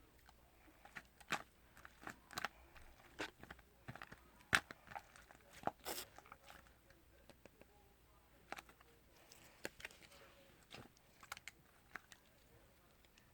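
Irregular soft clicks and short crackles, a dozen or so scattered over several seconds with brief pauses between them.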